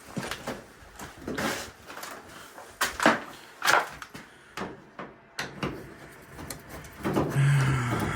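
Irregular clanks and rattles of sheet-metal vent pipe and fittings being handled and taken apart, with a short steady whir near the end.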